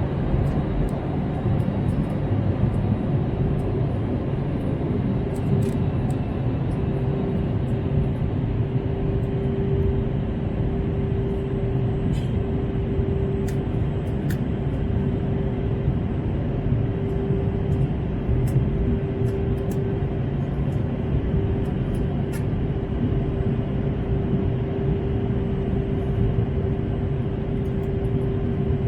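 Steady cabin noise inside an Airbus A321: an even rush of engines and airflow, with a steady hum that grows stronger about seven seconds in and a few faint light clicks.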